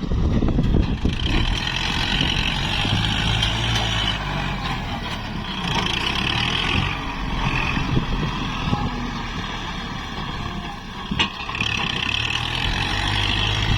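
Kubota MU4902 tractor's diesel engine running steadily. A single sharp knock comes about eleven seconds in.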